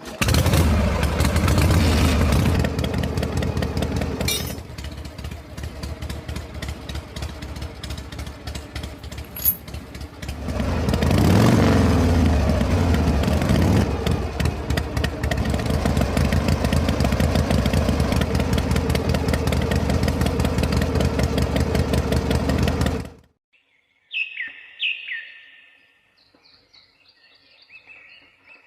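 Small engine of a homemade toy diesel-engine water pump running with a fast, even beat. It settles lower at about five seconds, revs up again around eleven seconds, then runs steadily until it cuts off suddenly about five seconds before the end. Birds chirp after it stops.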